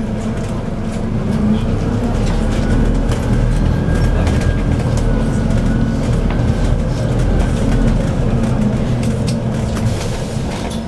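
Scania OC09 9.0-litre biogas engine of a double-decker bus heard from on board, running steadily under load with a low rumble and a faint high whine, among short rattles and clicks; it eases off near the end.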